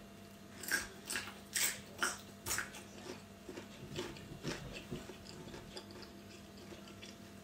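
Raw red bell pepper being bitten and chewed: about five sharp crunches in the first few seconds, then softer, smaller chewing.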